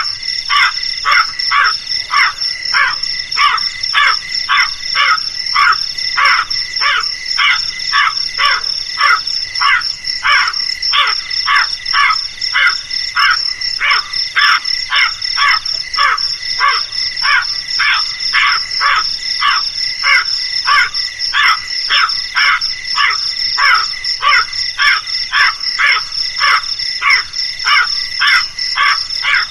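Crow cawing over and over, about two short harsh calls a second without a break, over a steady high-pitched insect trill.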